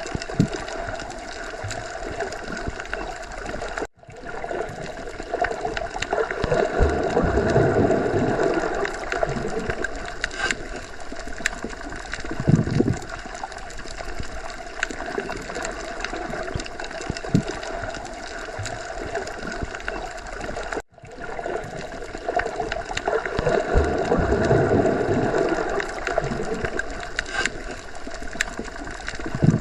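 Underwater sea ambience: a steady watery wash with low rumbling swells that rise and fall slowly, twice. It cuts out for an instant twice, about 4 and 21 seconds in.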